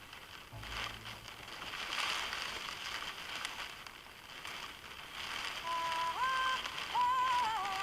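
Steady hiss of heavy storm rain, with a brief low rumble about half a second in; a song's sung melody comes in over it about two thirds of the way through.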